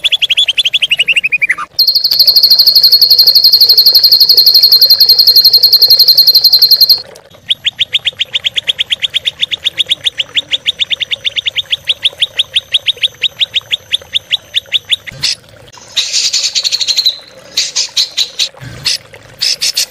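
Songbirds trilling loudly: a fast, high, buzzing trill held for about five seconds, then a long run of quick repeated notes, about eight a second, and shorter bursts of chips near the end.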